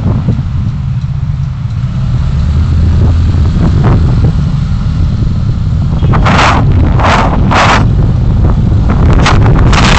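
Vehicle on the move heard through a dashcam microphone: a steady low rumble of road and wind noise, with short, loud rushes of wind buffeting on the microphone several times from about six seconds in.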